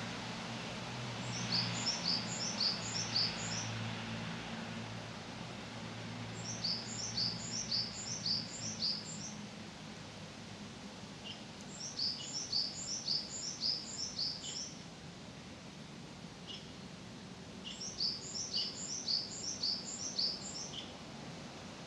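A small songbird sings four short phrases of rapid, high repeated notes, roughly five seconds apart, over steady outdoor background noise. A low distant hum is there at first and fades out by about halfway.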